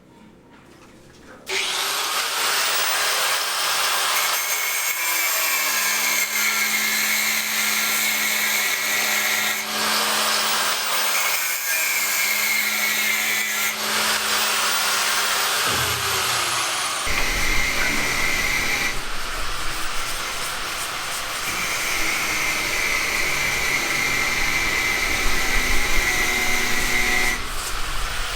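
A power tool starts about a second and a half in and runs on with a high whine. The whine drops out and picks up again several times, with the motor spinning back up. A low rumble joins past the middle.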